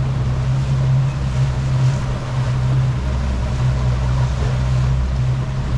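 Rigid inflatable speedboat running steadily under way: a low, even engine drone with wind and water rushing past the hull.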